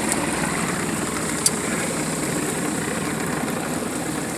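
A small sailboat's auxiliary engine running steadily under way while motoring. A single brief click comes about a second and a half in.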